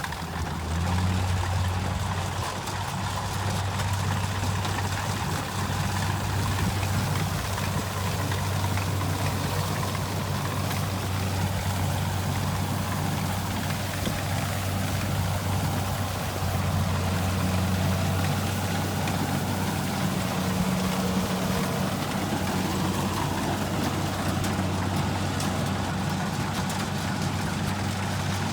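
Kubota combine harvester's diesel engine running steadily, a constant low hum that comes up about a second in.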